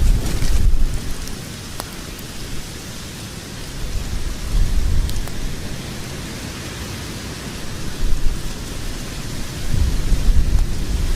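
Logs burning in a fireplace: a steady hiss with low rumbling surges and a few sharp crackles and pops.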